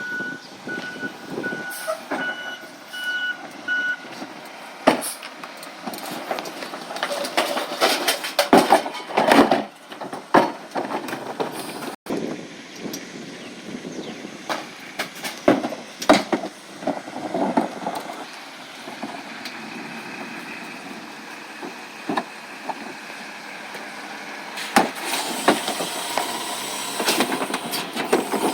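Recycling truck's reversing beeper sounding for about the first four seconds, over the truck running. Then a long run of knocks, bangs and clatter from the truck at work.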